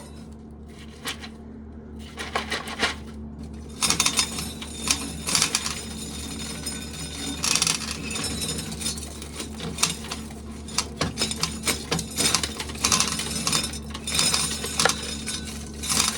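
Corn being shelled, the loose kernels rattling and clinking as they fall into a pail: scattered at first, then a dense, continuous patter from a few seconds in. A steady low hum runs beneath.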